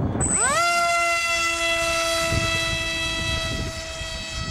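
Electric motor of a 6mm foam FlyRC MiG-29 RC jet rising quickly to high throttle about half a second in, then holding a steady high whine with a string of overtones. Wind noise buffets the microphone underneath.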